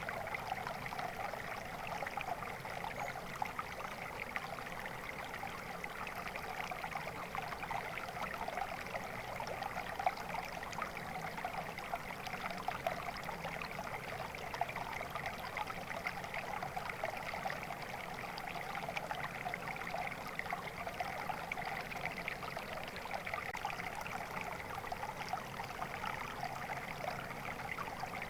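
A stream of water flowing and splashing steadily over stones, an even rushing burble with fine trickling detail.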